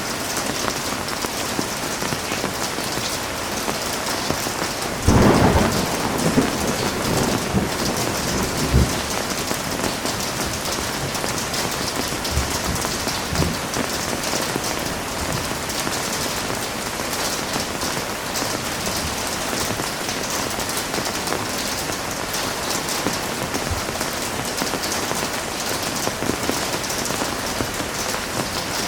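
Heavy rain falling steadily. About five seconds in, a sudden clap of thunder breaks through and rumbles away over the next few seconds.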